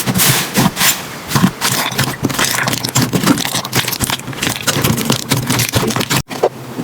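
Slime being squished and worked by hand, making dense, irregular crackling and popping. The sound cuts out briefly near the end.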